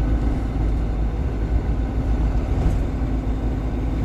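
Steady diesel engine drone and road noise inside the cab of a GAZon Next truck cruising on the highway.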